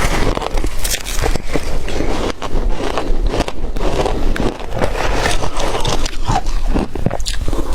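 Shaved ice being bitten and chewed close to the microphone: a continuous run of loud, irregular crunches and crackles.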